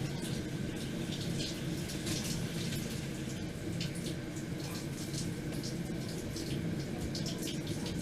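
Water running steadily from a tap, with irregular splashing over a low, even rush.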